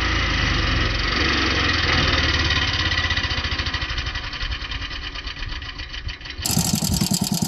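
Vehicle engine running with an even pulsing beat, fading slightly, then an abrupt switch about six seconds in to a louder, deeper engine sound.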